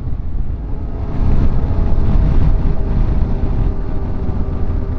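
Wind buffeting a helmet-mounted microphone over a Yamaha Ténéré 700 parallel-twin motorcycle running at steady road speed; a steady hum comes in about a second in.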